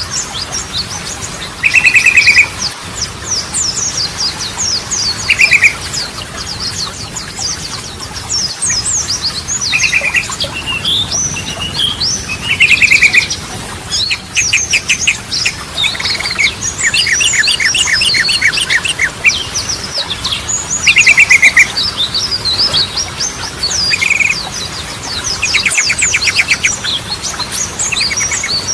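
Yellow-vented bulbul (trucukan) in full song: short, loud trilled phrases recur every few seconds over a constant chatter of quick, high chirps.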